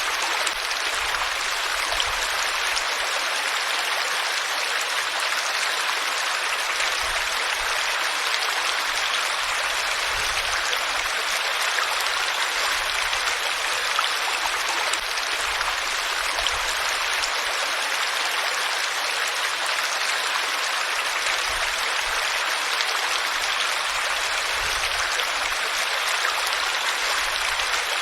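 Flowing water running steadily, an even rushing splash with no pauses or changes.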